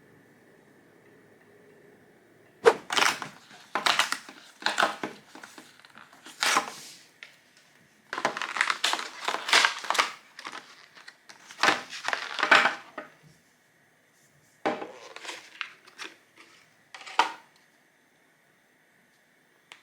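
Irregular rustling and crinkling handling noises in quick clusters, a pause, then a few more near the end.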